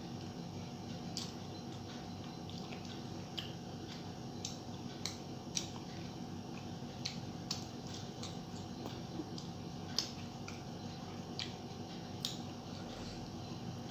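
A person eating rice and fish curry: scattered short, wet mouth clicks and smacks of chewing, a couple of seconds apart, over a steady low hum.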